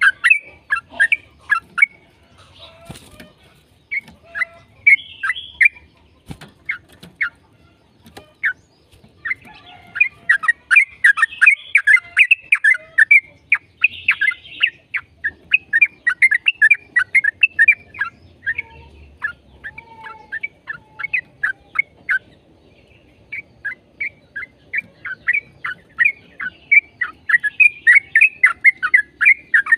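Yellow-vented bulbul (trucukan) singing long rapid runs of short chirping notes, several a second, with a few brief pauses between the runs.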